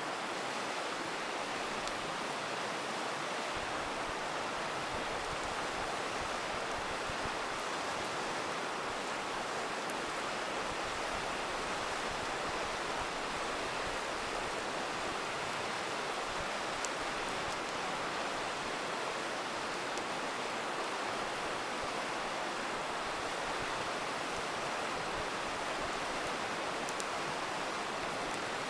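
Steady rushing of a river, with a few faint, sparse crackles from a campfire over it.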